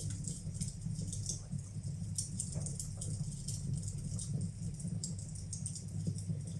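Wood fire burning in a fireplace, crackling with frequent small, irregular pops over a steady low rumble.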